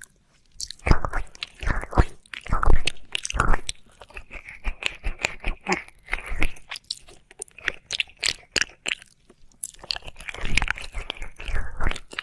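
Close-miked wet mouth sounds: irregular licking, smacking and clicking, as in ASMR ear licking.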